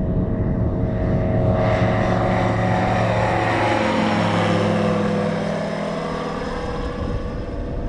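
Light propeller airplane taking off at full power and passing by, its engine and propeller noise swelling to a peak about halfway through and then fading as it climbs away.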